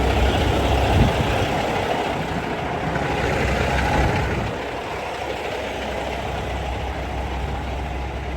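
Diesel truck engine idling with a steady low rumble, with a single knock about a second in.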